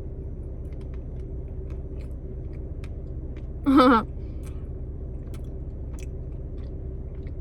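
Faint wet clicks of chewing cheesecake over a steady low hum inside a car, with a short voiced sound about halfway through.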